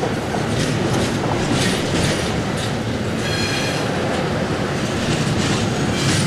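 Intermodal freight train's loaded container well cars rolling past at close range: a steady heavy rumble with repeated wheel clacks over the rail joints. A brief high-pitched metal squeal comes about three seconds in.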